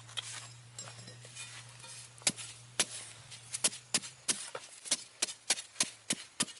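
A series of sharp chopping strikes, a few scattered at first, then coming quickly at about two to three a second from about two seconds in.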